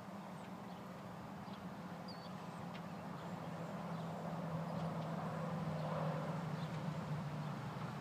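Killdeer calling: short, faint, high cries scattered throughout, over a steady low hum and outdoor background noise.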